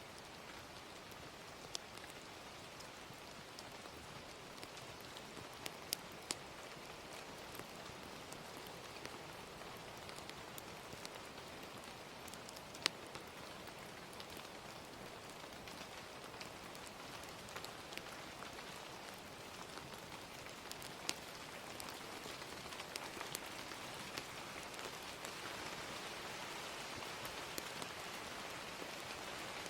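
Steady gentle rain with scattered sharp crackles and pops of a fire, the rain growing a little louder near the end.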